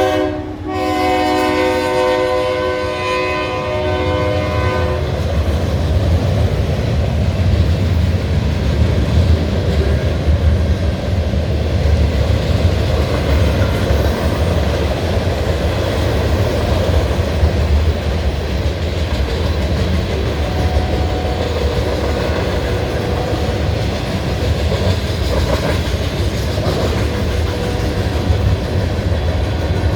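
Diesel locomotive air horn sounding a chord, breaking briefly just after the start and then held until it stops about five seconds in. After that, the steady noise of a freight train's wheels running past on the rails.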